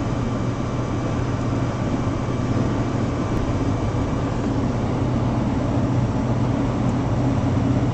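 Long freight train passing, a steady low rumble and hum.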